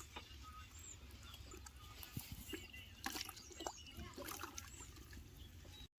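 Faint trickling and splashing of water as a whole chicken is washed by hand, with small scattered knocks.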